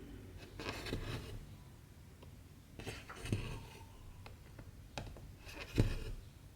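Cotton embroidery thread pulled through cross-stitch fabric with soft swishes, three of them about every two and a half seconds, with a few light ticks of the needle in between.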